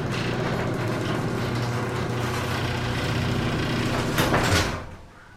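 Liftmaster garage door opener running to close the door, a steady motor hum with the rattle of the moving door. About four seconds in there is a brief louder clatter as the door comes down, and the opener stops abruptly about a second later.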